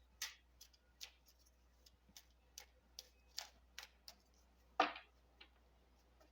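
A deck of tarot cards being handled and shuffled by hand: a run of soft, irregularly spaced clicks, with one louder one about five seconds in.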